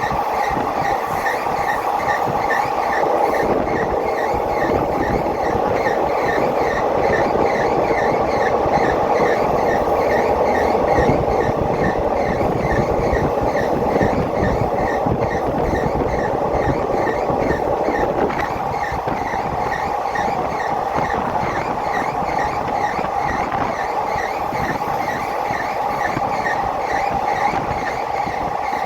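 Passenger train running along the track, heard from aboard: a steady rumble of wheels on rails with a regular light clatter.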